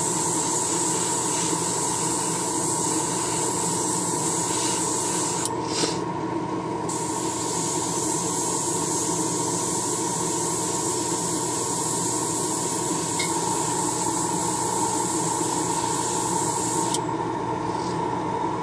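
Airbrush hissing as it sprays paint in two long passes, with a short break about six seconds in, and stopping shortly before the end. A steady hum runs underneath.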